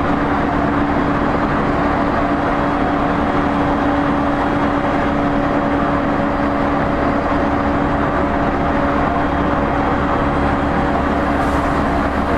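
Running noise inside the passenger cabin of an E231-series 0 commuter train's motor car, cruising between stations: a loud, even rumble of wheels on rail with a steady hum from the traction drive that holds its pitch.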